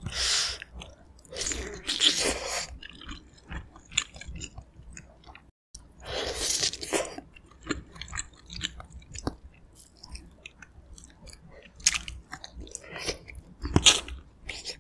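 Close-miked chewing and biting of aged kimchi and pork from pork-bone stew, with wet mouth sounds and small clicks. Several louder noisy bursts of about a second each come through, at the start, about two seconds in, about six seconds in and near the end.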